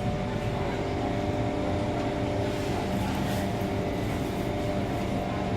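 Kawasaki C151 metro train running between stations, heard inside the carriage: steady rolling noise with a constant hum of several steady tones from the running gear.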